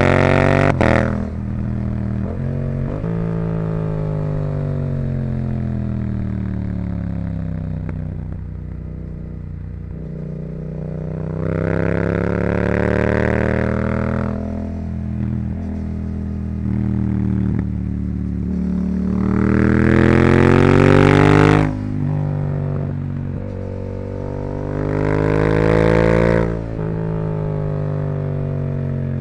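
Yamaha YZF-R7's 689 cc parallel-twin through a Yoshimura R77 exhaust, under way on a winding road. The engine note sags and falls off throttle, then climbs sharply in rising pulls three times. The second pull cuts off suddenly as the throttle is shut or the bike shifts.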